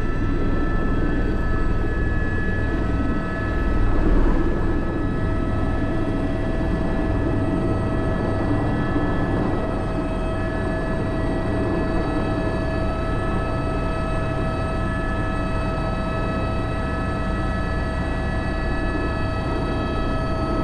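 Airbus H125 (AS350 B3) helicopter in flight, heard from the cockpit: a steady turbine whine over the low rumble of the rotor, briefly louder about four seconds in.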